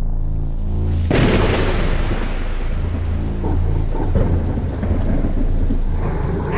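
Sound-effect thunderclap about a second in, rolling off into a long rumble over a rain-like hiss, with a low steady drone underneath.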